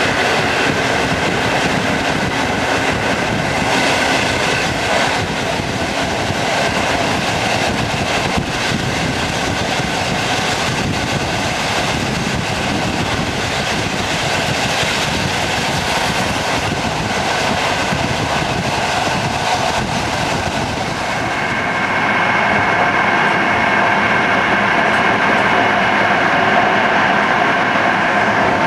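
Passenger train running, a steady rail and wheel noise with some rhythmic clatter. About two-thirds of the way through, high steady tones grow stronger over the noise.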